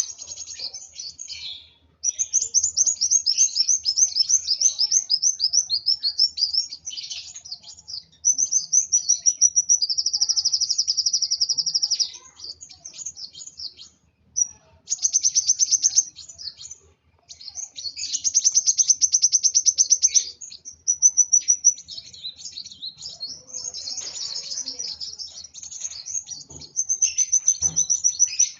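Kolibri wulung sunbird singing in fast, high-pitched trills and rapid chirp series, almost without a break apart from two short pauses midway. This is the agitated, fired-up song that bird keepers call 'emosi'.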